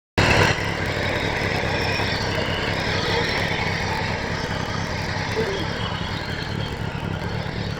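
Petrol inter-cultivator's 7 HP Kaiao 170F single-cylinder four-stroke engine running steadily, a little louder in the first half second.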